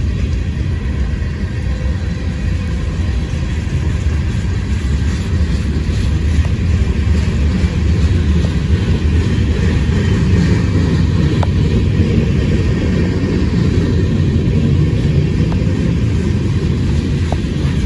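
Train rolling past with a steady, loud low rumble and a few faint clicks.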